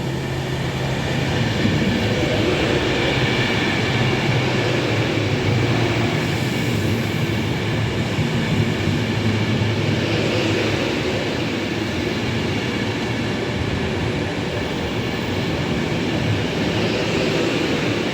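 Class 390 Pendolino electric train running slowly past the platform, a steady rolling noise of wheels and traction equipment with a low hum.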